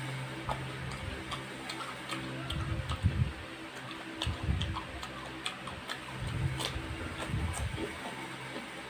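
A person chewing a mouthful of instant pancit canton noodles with the mouth closed, close to the microphone: frequent short wet mouth clicks and smacks, with soft low thuds of chewing in a few clusters.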